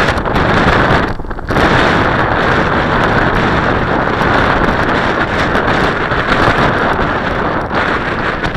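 Strong gusty wind buffeting the microphone: a loud, steady rush that drops briefly about a second in, then comes back.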